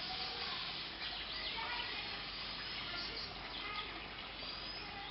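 Steady background ambience with faint, scattered bird chirps.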